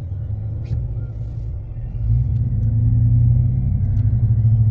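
Car engine and road noise, a low rumble that grows louder about two seconds in and settles into a steady low hum.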